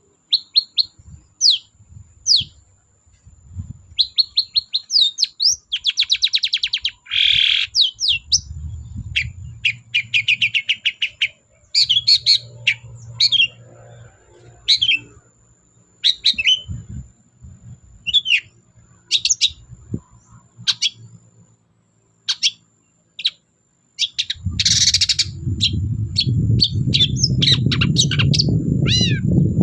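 Long-tailed shrike (cendet) singing in full voice: a rapid string of short, sharp downslurred whistles, broken by fast trills and harsh buzzy notes. A low rumbling noise joins it over the last few seconds.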